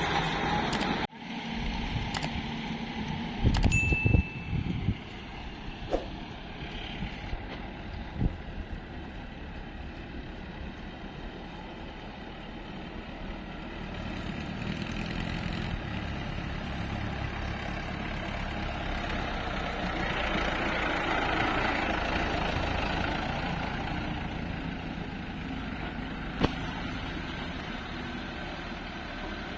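Heavy diesel engine running steadily, swelling a little about two-thirds of the way through, with a cluster of knocks about four seconds in and a few single clicks.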